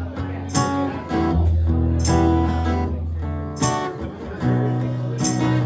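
Live band's instrumental intro: acoustic guitar strumming chords over sustained low bass notes, before the vocals come in.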